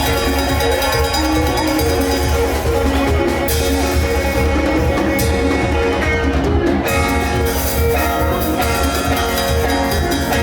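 Kamba band music playing live, with held pitched notes over a steady beat and heavy bass.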